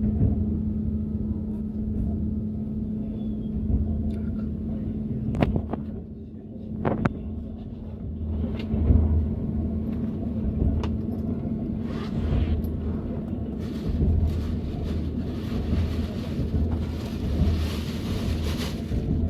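Interior of a Russian long-distance passenger train's platzkart car running on the rails: a steady low rumble with a held hum, irregular low thumps from the running gear and a couple of sharp clicks, with a brighter hiss in the second half.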